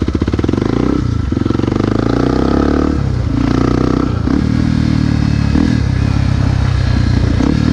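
Honda XR250 Tornado's single-cylinder engine revving up in two rising pulls, each cut off sharply, then running at a steady speed.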